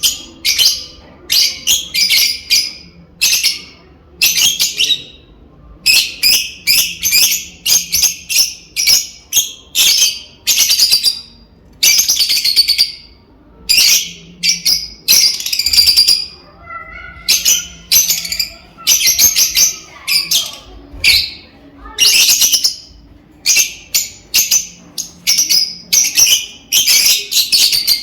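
Lovebirds chirping: high, harsh chirps in quick bursts with short gaps between them, and a fainter, lower warbling call about two-thirds of the way in.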